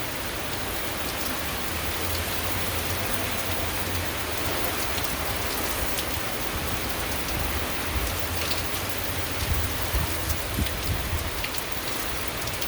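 Heavy rain pouring down in a dense, steady hiss, a cloudburst at its peak, with a low rumble beneath and a few louder spatters near the end.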